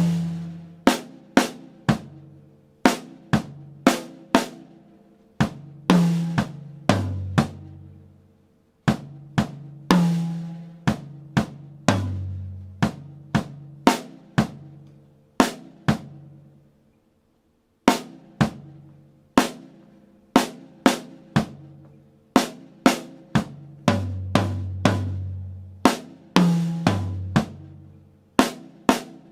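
Drum kit played as a slow 60 bpm exercise: a steady run of single strokes that move between drums of different pitch, each ringing out briefly. The playing stops for about a second and a half around the middle, then carries on.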